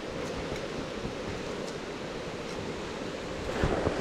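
Steady rushing of river water, with a short dull bump near the end.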